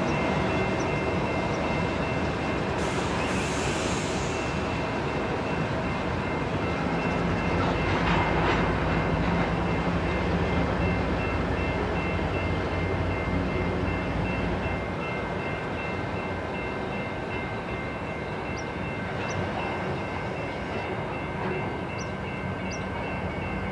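CN freight train with a diesel locomotive approaching at low speed: steady engine rumble and the noise of wheels on rail, with steady high ringing tones over it. A brief hiss comes about three seconds in.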